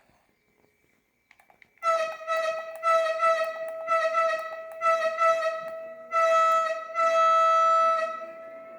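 Train horn sounding one high note, first as a quick run of about a dozen short toots, then as two long blasts, before fading.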